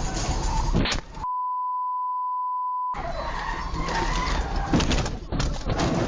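Vehicle and road noise in a dash cam recording. About a second in it is cut out by a steady, single-pitch beep lasting about a second and a half, the kind dubbed over swearing, and then the road noise returns.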